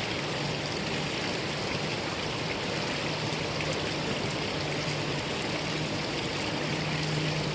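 Mountain valley stream rushing steadily over rocks, with an even splashing wash of water.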